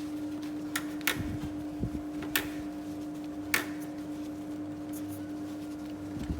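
A steady mechanical hum with a constant pitch, broken by several sharp clicks or taps in the first few seconds.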